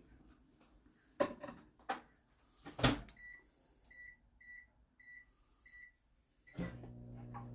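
A few knocks as a container goes into a microwave oven and the door shuts, then five short high keypad beeps as the cooking time is set, and near the end the microwave starts running with a steady low hum.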